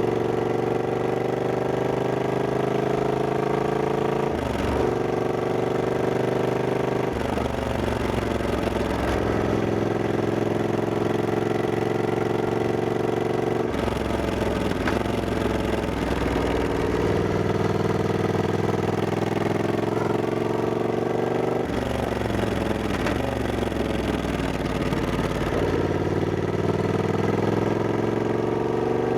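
Triumph Scrambler 1200X's 1200 cc parallel-twin engine under way. It pulls up in pitch and drops back several times as the rider accelerates and shifts or rolls off the throttle.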